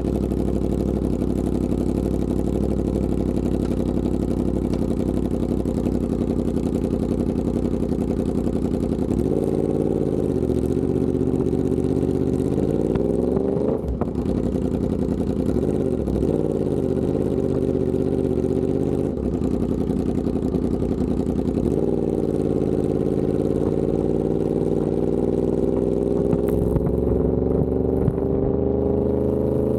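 Yamaha R1M's crossplane inline-four through an SC Project exhaust: running steadily at first, then rising and falling in pitch as the bike accelerates, with brief breaks at the gear changes, and a long steady climb in revs near the end.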